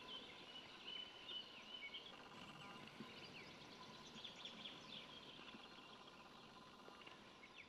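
Faint birdsong, short chirps and twitters, over quiet outdoor background hiss.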